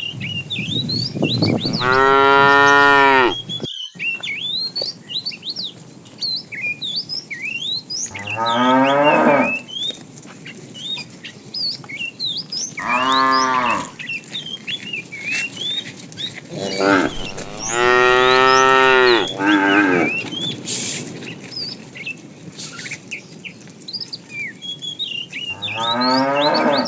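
Cattle mooing: about five long, loud moos, several seconds apart. Many short, high chirps run underneath throughout.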